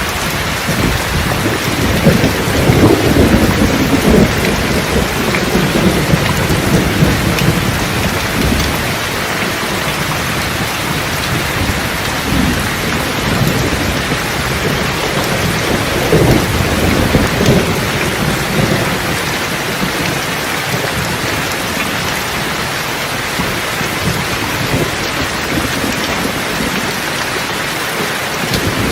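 Steady rain with rolling thunder: a long low rumble from about two seconds in that fades by about nine seconds, and a shorter rumble a little past halfway.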